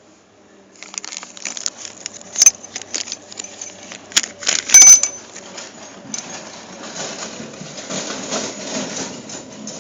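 Metal valves clicking and rattling in the Mazda Titan SL engine's cylinder head, with two sharp ringing metal clinks about two and a half and five seconds in. The valves sit loosely in their guides: even the new valves wobble, which the owner puts down to too much clearance in the guides.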